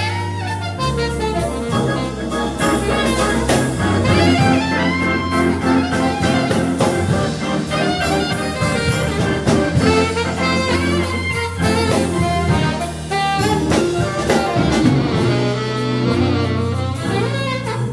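Jazz music with saxophone and brass playing a melody over a bass line and a steady beat.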